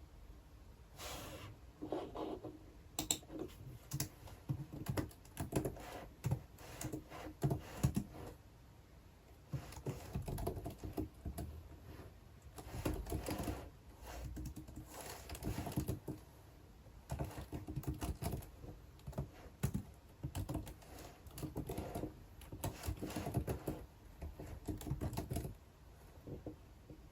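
Typing on a computer keyboard: irregular bursts of keystrokes with short pauses between them, stopping shortly before the end.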